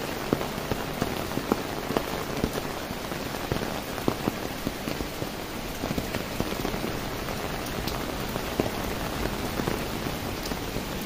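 Steady rain falling, with many individual drops ticking close by on an umbrella overhead.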